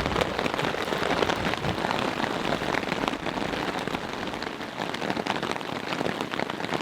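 Rain falling steadily on a tarp shelter overhead, a dense, even patter of drops.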